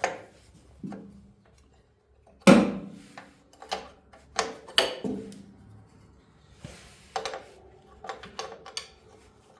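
Metal tools and parts clanking and knocking in a string of sharp separate hits, the loudest about two and a half seconds in.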